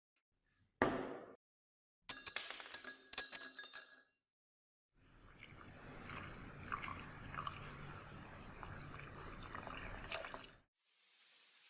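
Hard metal clinks: one sharp ringing hit, then a quick run of clinks and rattles. After that comes several seconds of rough hissing noise that cuts off suddenly.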